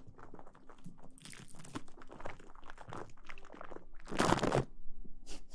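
Close-miked ASMR rustling and crinkling: a steady patter of small crackles, with one louder, longer rustle about four seconds in.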